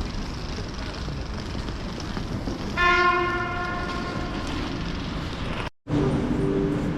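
A train horn gives one sudden blast on a single steady note about three seconds in, the loudest sound here, fading away over about a second and a half above the steady noise of a railway station platform. Near the end the sound cuts out for a moment, then the station noise resumes.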